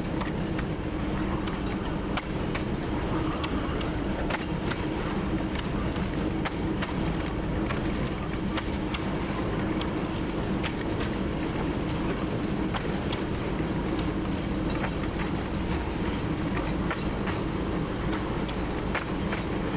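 TU7 narrow-gauge diesel locomotive under way, its engine running with a steady drone, with scattered clicks and knocks from the wheels on the track.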